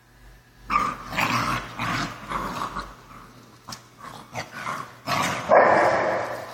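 Dogs growling in rough play, in irregular bursts, with a louder burst a little past five seconds in.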